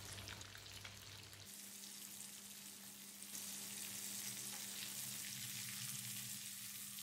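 Breadcrumb-coated prawns sizzling in hot oil in a non-stick pan, with a metal spoon stirring and turning them. The sizzle gets louder about three seconds in, over a steady low hum.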